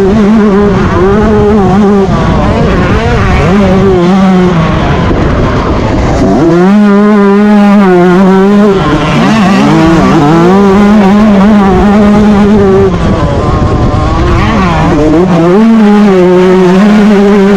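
Yamaha YZ125 two-stroke motocross engine running hard at race pace, its high steady note dipping briefly several times as the throttle is rolled off and back on.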